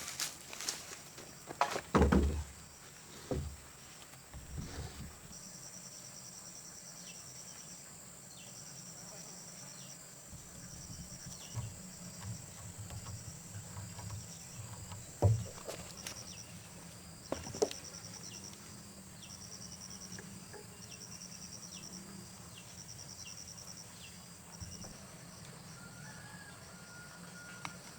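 Insects chirping in repeated pulsing trains over a steady high hum, broken by a few sharp knocks, the loudest about two seconds in and another about fifteen seconds in.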